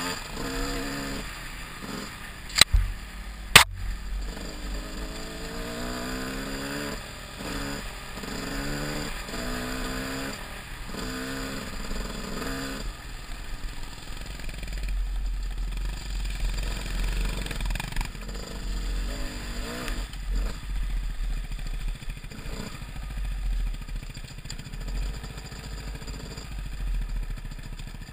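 Enduro dirt bike engine, revving up and dropping back again and again as it rides the rough track, with two sharp knocks about three seconds in. About halfway through the revving gives way to a steadier, lower engine note under a heavy low rumble.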